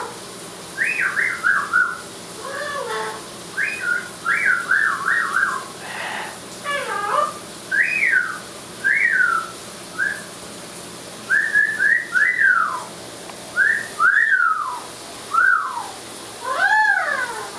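Amazon parrot whistling a string of short notes, most sliding downward, some in quick warbling zigzags, about one every second, over a steady hiss of running shower water.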